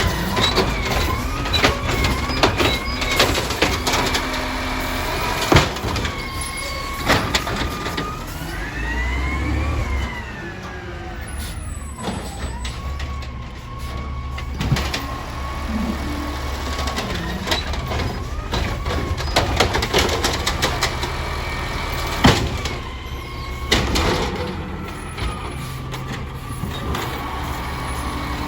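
Garbage truck at work: the engine runs with a steady low rumble under a whine that rises and falls, broken by repeated metal clanks and bangs.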